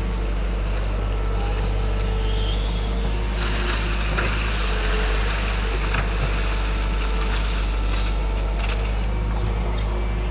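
Excavator's diesel engine running steadily, a constant deep drone with a faint steady whine above it.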